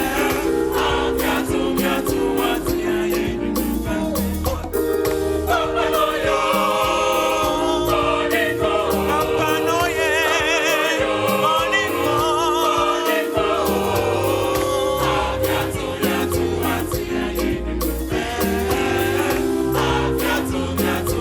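A gospel choir singing with band backing: sustained chords, a low bass and a steady beat. In the middle the bass drops out for several seconds while a voice with strong vibrato rises above the chords, and the bass returns after that.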